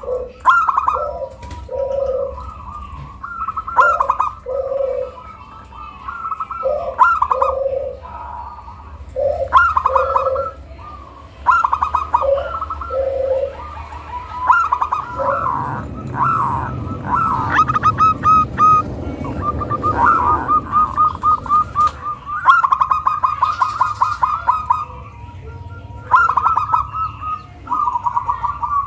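Zebra dove (perkutut) cooing, phrase after phrase of its staccato coo. About two-thirds of the way through the phrases break into a fast run of short repeated notes.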